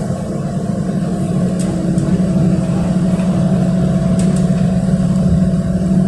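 City bus engine running as the bus drives, heard from inside the passenger cabin: a steady drone that grows slightly louder over the first two seconds, with a few faint ticks.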